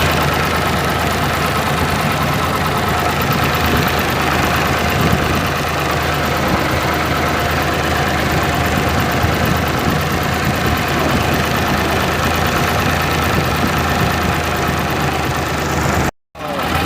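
Tractor engine running steadily with a constant low drone. The sound drops out for a moment near the end.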